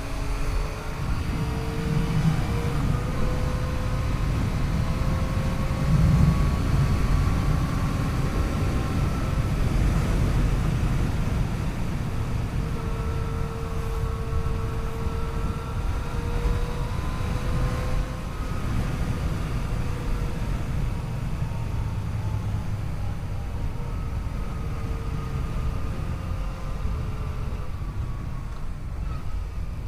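Yamaha FJ-09 motorcycle's three-cylinder engine running under way, its pitch rising and falling gently with the throttle, over a heavy rush of wind and road noise on the bike-mounted microphone.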